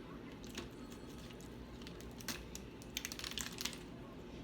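Snow crab shell being cracked and picked apart by hand: a scatter of light, sharp clicks and cracks, busiest past the middle.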